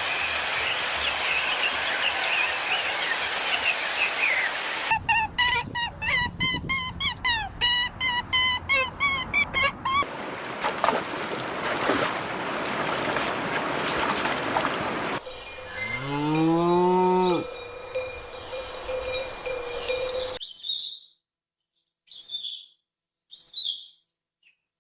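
A run of farm and animal sounds one after another: a stretch of rapid bird chirping, then one cow moo rising and falling in pitch, then a few short separate bird chirps with quiet between them near the end. Noisy outdoor background fills the gaps.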